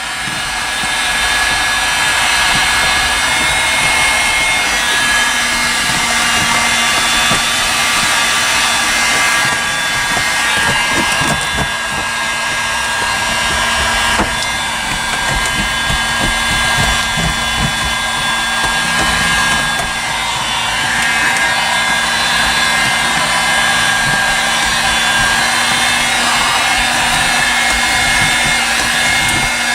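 Electric heat gun running steadily, its fan rushing with a steady motor whine, as it heats the tar backing of sound-deadener sheets to soften it.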